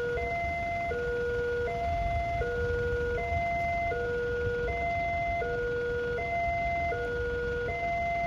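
Railway level-crossing warning alarm sounding its two-tone signal, alternating evenly between a lower and a higher tone about every three quarters of a second, over a low background rumble.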